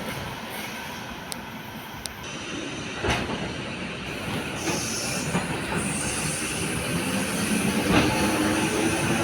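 Train running through a station with steady wheel-on-rail noise and two sharp knocks, about three and eight seconds in. Near the end a rising whine sets in and grows louder.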